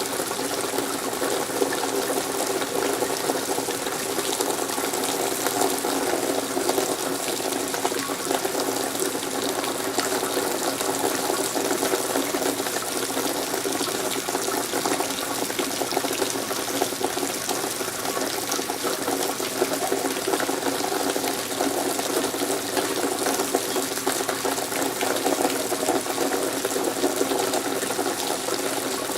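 Steady rain falling and splashing, a dense even patter with many fine drop ticks that does not let up.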